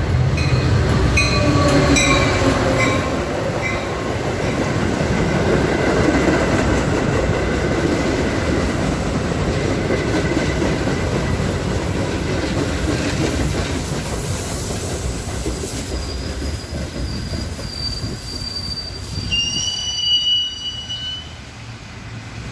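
Metra commuter train with EMD F40PH diesel locomotive #169 rumbling and rattling through the station as it slows. Thin high-pitched wheel and brake squeals ring out from about three-quarters of the way in, and the sound dies down near the end.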